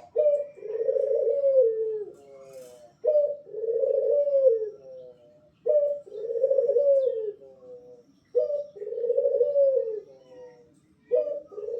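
Spotted dove (tekukur) cooing. It repeats its phrase five times, about every three seconds, each a short note followed by a long coo that drops in pitch at the end.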